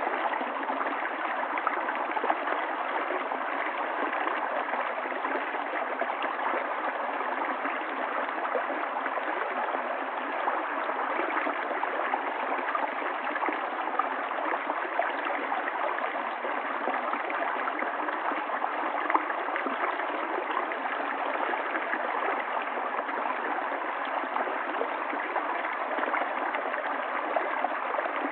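Running water of a stream, flowing in a steady, even rush with small irregular splashes and gurgles.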